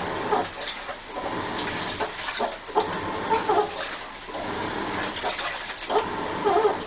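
Washing machine churning with water sloshing, giving off repeated short squeals that waver in pitch and sound almost like a voice moaning.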